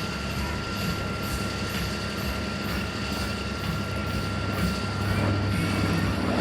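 B-25 Mitchell bomber's twin radial engines droning steadily in flight, a little louder near the end.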